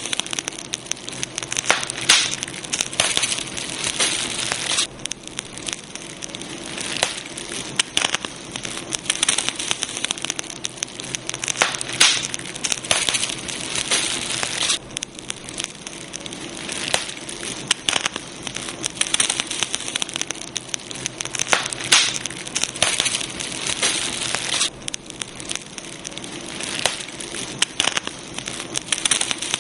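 Campfire burning: wood crackling with frequent sharp pops and snaps over a steady hiss.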